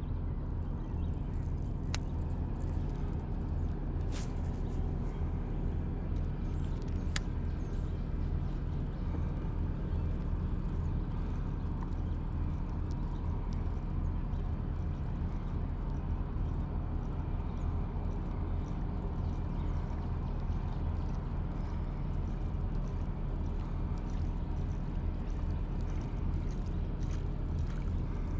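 Boat motor running steadily at a low, even speed, with a few faint sharp clicks in the first several seconds.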